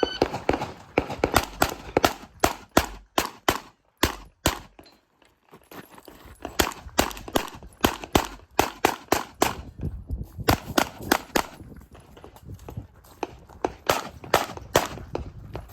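Handgun fired in rapid strings of shots, several a second, with a pause of about two seconds roughly four seconds in before the firing resumes.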